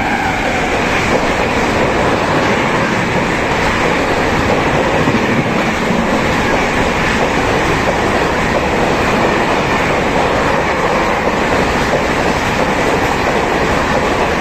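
Express train passing through a station at speed without stopping: a loud, steady rush of wheels on rails and coaches going by.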